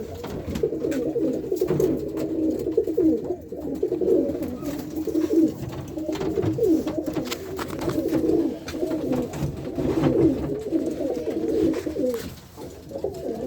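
Many racing pigeons cooing together, mostly young cock birds, their low warbling coos overlapping without a break, with scattered light clicks among them.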